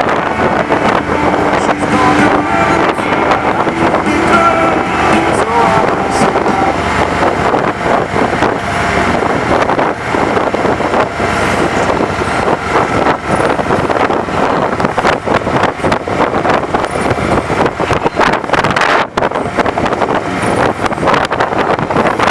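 Wind rushing over the microphone of a camera on a bicycle speeding downhill: a loud, steady roar of noise throughout.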